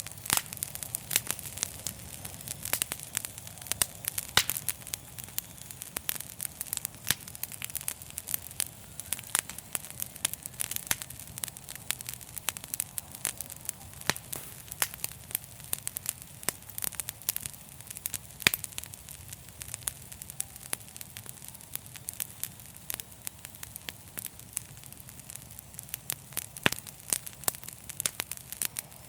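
Wood fire crackling in a fireplace: frequent, irregular sharp pops and snaps over a steady hiss and a low rumble.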